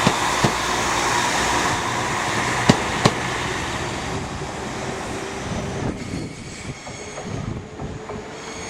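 A departing diesel multiple unit, a Class 195, rolls out along the platform. Its wheels click in pairs over the rail joints and points, and the running noise fades away over the second half.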